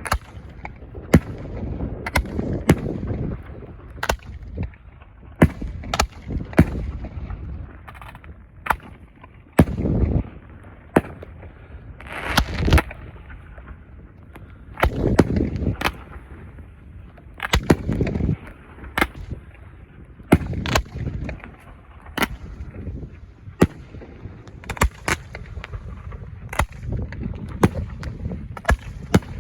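Fireworks going off: a long series of sharp bangs at irregular intervals, a second or so apart, with several deeper, longer booms mixed in.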